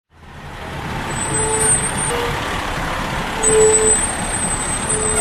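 A large truck running, its rumble fading in over the first second, with short high squeals and a middle tone coming and going over the engine noise.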